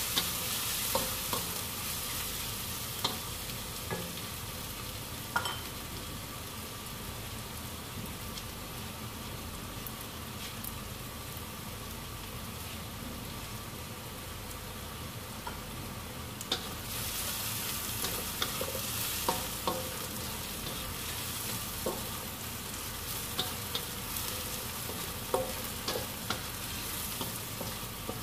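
Chopped shallots, garlic and dried chilli sizzling in oil in a wok, being fried until dry. A spatula clicks and scrapes against the wok as they are stirred near the start and again through the second half, with a stretch of plain sizzling between.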